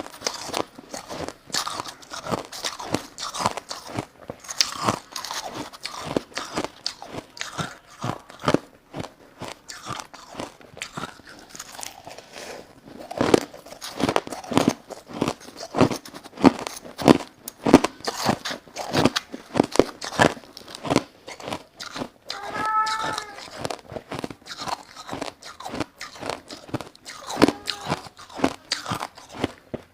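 Crushed ice being bitten and chewed close to the microphone: a dense, irregular run of crunches, louder in the second half. A brief pitched vocal sound breaks in about two thirds of the way through.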